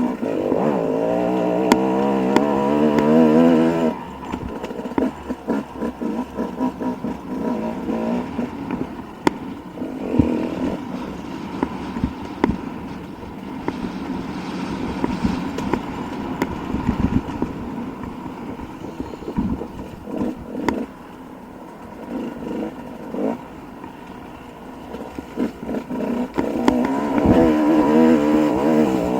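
Dirt bike engine running close, its pitch wavering with the throttle. About four seconds in it drops much quieter, leaving a stretch of many short knocks and clicks with the engine fainter, and near the end the engine comes back loud.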